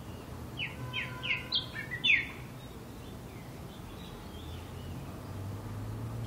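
A bird calls a quick series of about six short, falling whistled notes, the last one loudest, followed by fainter calls. A steady low hum of distant traffic lies underneath.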